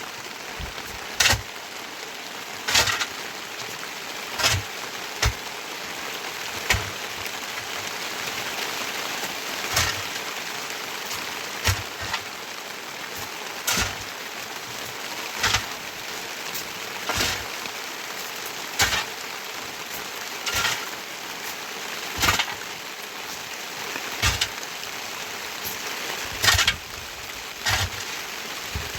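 Steady heavy rain hissing on surfaces, with a sharp tap or knock about every one and a half to two seconds.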